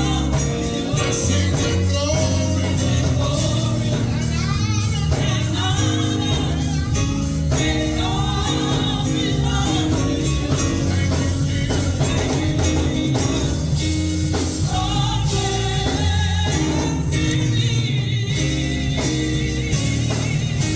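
Gospel song with lead vocals and choir over a band with bass and drums.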